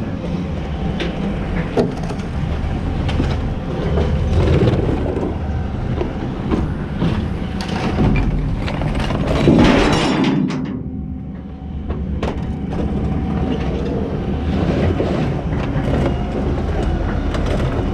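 Rusty chain, nuts, bolts and scrap tools being dumped from buckets into a steel scrap bin: a continuous clanking, rattling metal clatter with many sharp knocks, loudest about nine to ten seconds in, then briefly easing before carrying on. A steady low rumble runs underneath.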